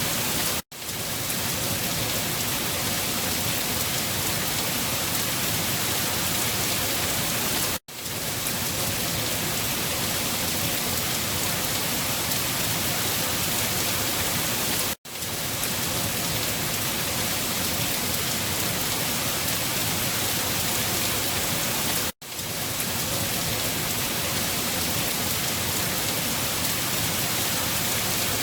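Steady rain falling, a dense even hiss. The sound cuts out for a split second and fades back in about every seven seconds, four times, as a looped rain recording restarts.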